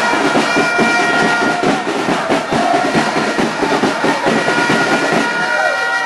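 Football supporters' band of drums and horns: a dense, fast drumbeat with steady horn notes held over it.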